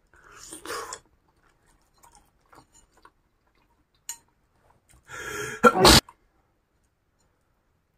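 Close-miked eating: a crunchy bite into a skewer of deep-fried, egg-coated cilor just under a second in, then faint chewing clicks. About five seconds in comes a loud, short burst of noise lasting about a second, the loudest sound here.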